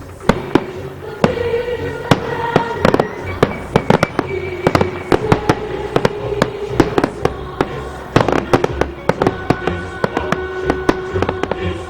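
Aerial fireworks bursting in rapid succession: many sharp bangs and crackles, thickest about two thirds of the way through. Music plays underneath.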